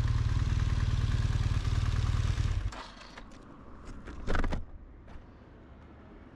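BMW R 1200 GS flat-twin boxer engine idling with a steady low pulse, then switched off about two and a half seconds in. A few small clicks and one short, sharp noise about four seconds in follow over a quiet background.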